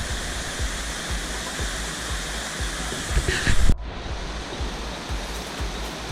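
Large waterfall rushing steadily. A little after three seconds it briefly grows louder, then the sound changes abruptly and loses its top hiss.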